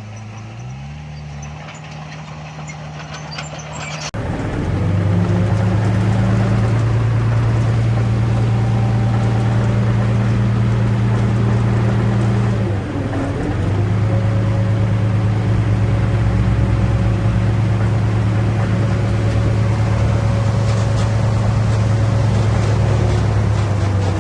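Heavy diesel engine of earthmoving machinery running steadily. About four seconds in, the sound jumps abruptly to a louder, closer engine, which dips briefly about halfway through.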